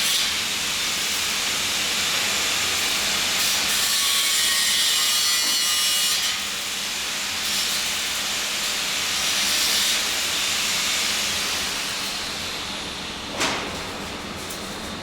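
Electric arc welding: a steady, crackling hiss that runs for about twelve seconds and then dies away. A single sharp knock of metal follows near the end.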